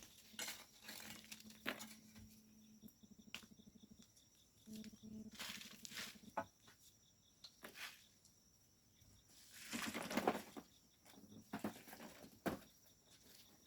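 Shovels scraping and crunching in volcanic sand, in scattered strokes, with a few louder rushes of sand about five and ten seconds in. A faint steady hum runs under the first three seconds.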